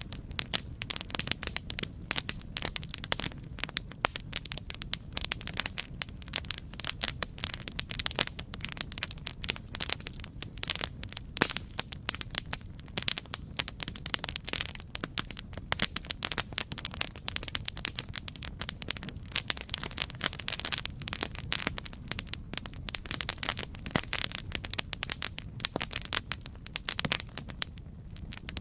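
Campfire burning with a constant, irregular crackle of many small sharp pops over a low steady rumble of flame.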